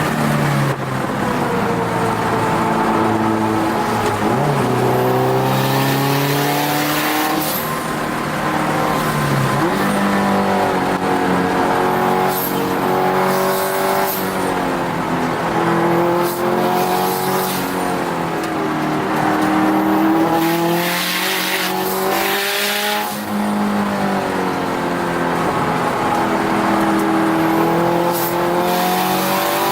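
Turbocharged Subaru WRX STi flat-four heard from inside the cabin at racing pace. Its note climbs through the revs, drops sharply, and climbs again many times over, as the car accelerates, shifts and brakes around the circuit.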